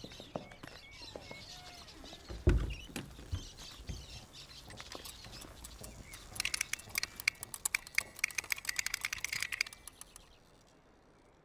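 Green plastic pull-string toy being wound: a fast run of ratcheting clicks as its cord is drawn out, starting about six and a half seconds in and stopping just before ten. Earlier there are faint bird chirps and one loud thump.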